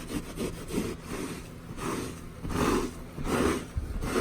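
Wet rag rubbing and wiping on an upholstered cushion in repeated strokes, lifting loosened rust stain. The strokes grow louder in the second half.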